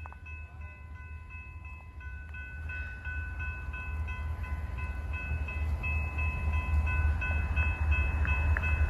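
An approaching train: a low rumble that grows steadily louder, with several faint, steady high ringing tones over it.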